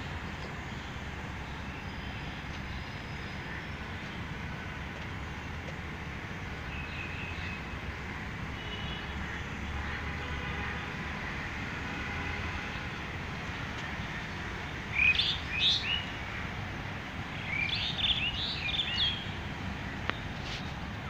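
A bird chirps in short rising and falling calls, in two bursts in the second half, over a steady low rumble of street traffic.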